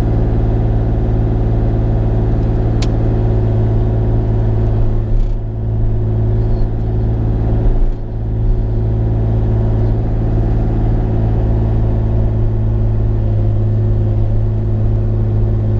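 Bobcat E35i mini excavator's diesel engine running steadily, its loudness dipping briefly twice, about five and about eight seconds in.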